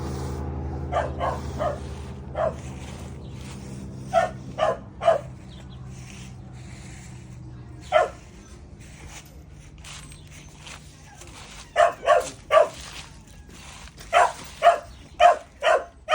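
A dog barking in short clusters of two or three, with a long pause about halfway through. A low engine hum fades away in the first few seconds.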